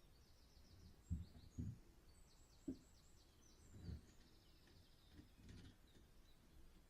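Faint small-bird chirping: quick series of repeated high notes and short trills. Several dull low thumps, the loudest sounds, fall among them in the first half.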